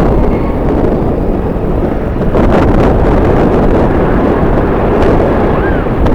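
Strong wind buffeting the microphone: a loud, low rumbling noise, with a few sharper crackling gusts about two and a half seconds in.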